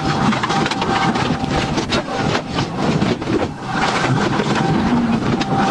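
Police patrol car driving fast in a pursuit, heard from inside the car: steady engine, tyre and wind noise.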